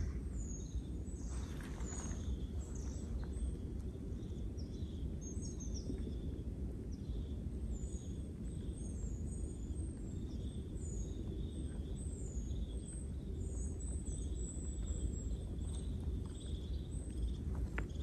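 Small birds calling over and over with many short, high, thin chirps, several sliding downward in pitch, over a low steady rumble.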